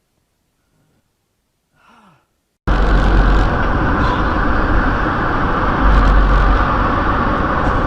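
Near silence, then about three seconds in the steady road and engine noise of a car driving starts suddenly, a dense rumble as heard from inside the car. Just before it, a faint short breath-like sound.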